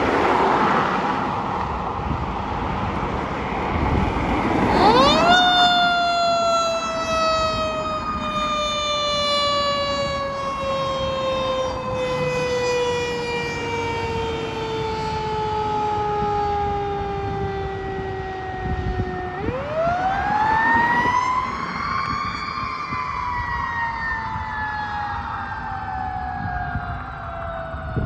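Fire engine siren responding. About five seconds in it climbs sharply in pitch, then slides slowly down for a long stretch. About twenty seconds in it winds up again and starts another long slow fall.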